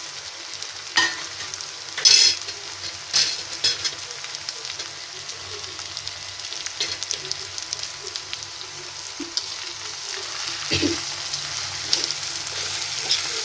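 Garlic, green chilli and ginger pieces sizzling steadily in oil in a kadai. A few sharp clinks and scrapes of utensils against the pan come through, the loudest about two seconds in and another near the end.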